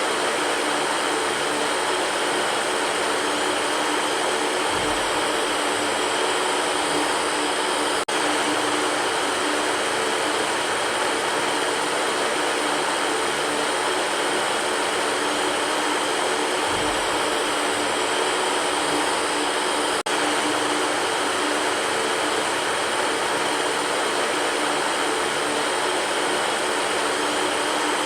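Electric fan running steadily, a constant whooshing of air with a faint hum under it, broken only by two split-second dropouts about 8 and 20 seconds in.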